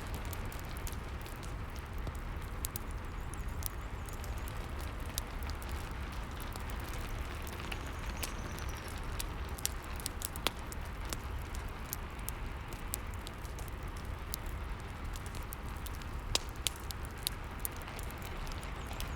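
Steady rain hiss with a fireplace crackling over it: scattered sharp pops and snaps at irregular moments.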